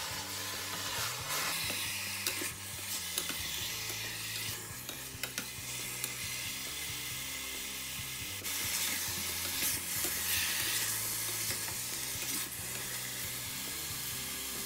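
Cubed pork belly sizzling in a hot stainless steel pot as it gives up its juices and fat, stirred with a wooden spatula that knocks now and then against the pot. The sizzle gets louder for a few seconds about eight seconds in.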